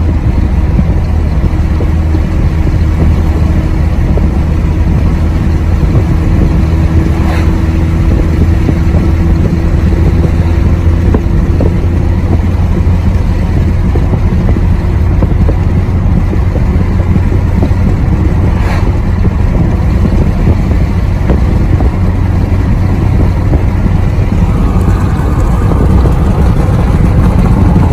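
Pickup truck driving on the road: steady engine and road noise from inside the cab, with two brief clicks along the way.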